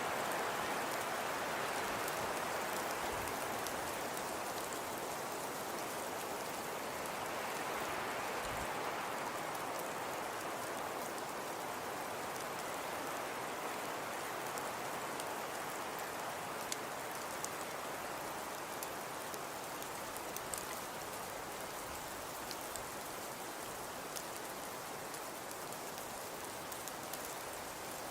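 Fireplace crackling: a steady soft hiss with scattered small sharp crackles and pops.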